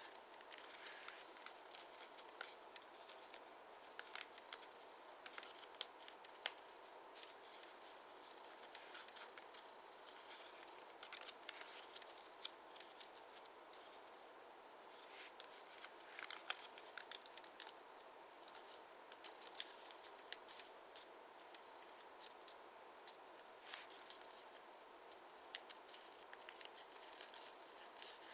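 Origami paper being folded and creased by hand: scattered faint crinkles and small taps, over a steady faint hum.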